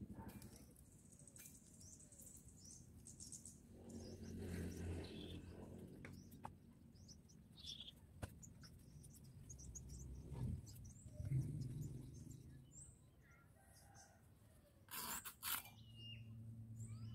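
Small birds chirping on and off over quiet outdoor ambience, with a faint low hum coming and going. Two short bursts of noise, the loudest sounds here, come near the end.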